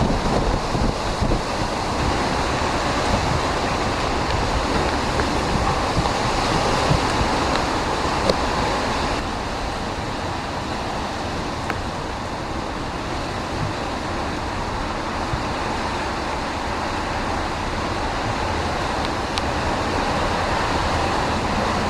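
Hurricane-force wind blowing steadily with wind buffeting the microphone, easing slightly about nine seconds in.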